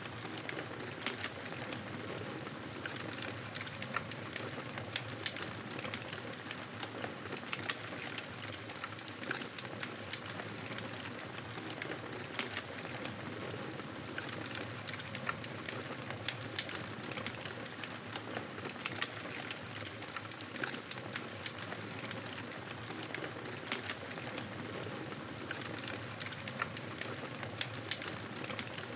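Wood fire in a fireplace crackling steadily, with many small irregular pops and snaps, several a second, over a continuous hiss and low rumble of the flames.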